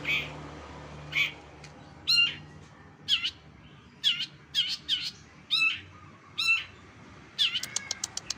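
A songbird calling: loud, sharp call notes repeated roughly once a second, a few in quick succession, breaking into a fast chattering run of notes near the end.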